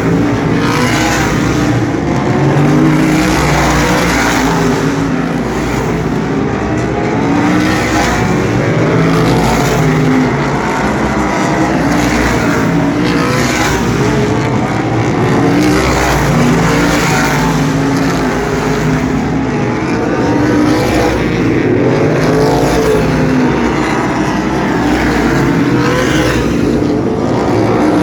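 Asphalt sprint cars racing around the track, engines running hard and steady, with a rise and fall in pitch every few seconds as cars sweep past.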